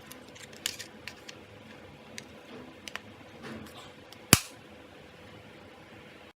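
Handling noises from unboxing: a string of small clicks and short rustles of packaging and parts, then one sharp, loud snap about four seconds in.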